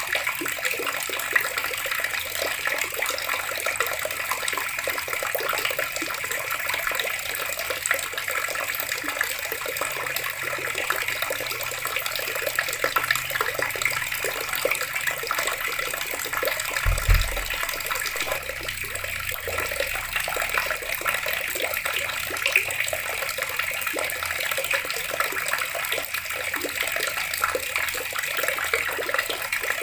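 Water tap running steadily, the stream splashing into water below. About 17 seconds in there is a single brief low thump.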